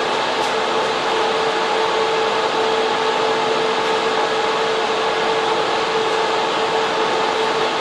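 Server room cooling fans and air conditioning running together, a loud, steady rush of air with a constant mid-pitched hum through it.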